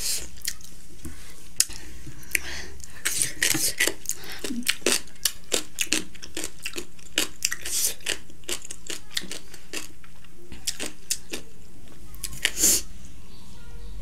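Close-miked chewing of spicy instant noodles: many quick wet mouth smacks and clicks at an uneven pace, with a short louder noise near the end.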